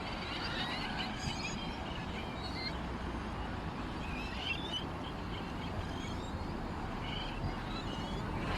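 Small songbirds chirping and twittering in short, scattered calls over steady background noise.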